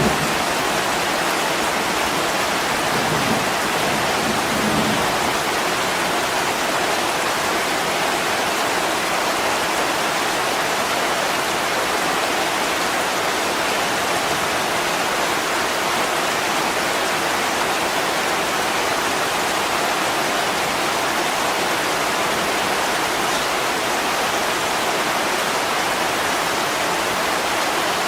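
Heavy rain falling steadily on a window, a constant even hiss.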